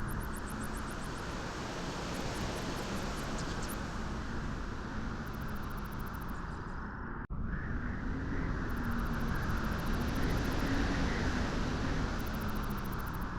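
Steady rushing wind with a faint wavering low hum in it, cutting out for an instant about seven seconds in.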